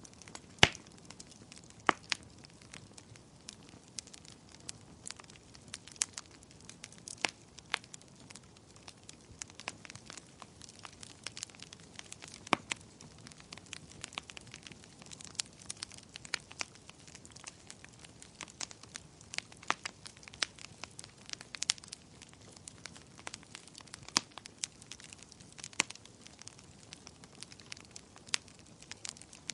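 Fireplace fire crackling: irregular sharp pops and snaps, several a second, over a soft steady hiss, with a few louder pops standing out.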